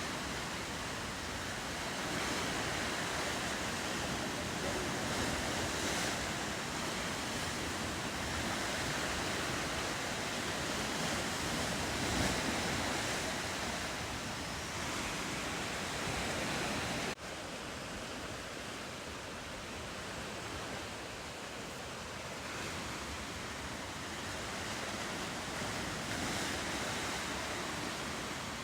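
Ocean surf washing against the coast, with wind over the microphone, as a steady rushing noise. About two-thirds of the way through it drops suddenly to a slightly quieter, duller wash.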